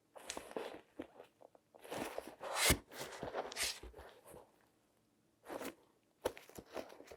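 Latex-gloved hands handling a shoe in irregular bursts of rustling, crinkling and scratching with small clicks. A sharp tap comes a little under three seconds in, and there is a short pause past the middle.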